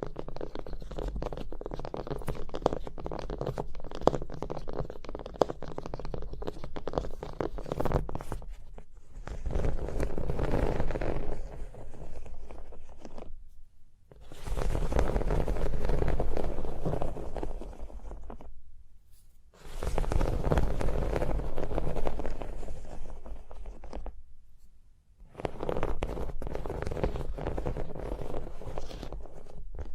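Close-miked ASMR tapping and scratching on objects: rapid fingertip and fingernail clicks, then stretches of denser scratching of about four to five seconds each, broken by short pauses.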